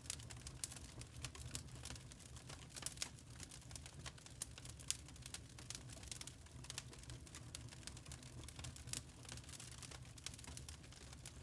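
Burning charcoal crackling: faint, irregular quick pops and ticks over a low steady rumble.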